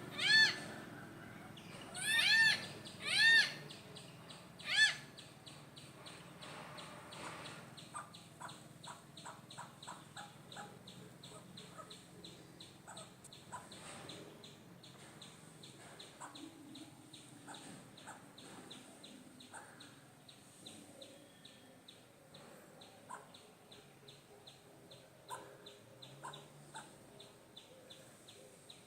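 Hornbills calling: four loud, hoarse calls in the first five seconds, the middle two close together. A faint, rapid ticking follows to the end.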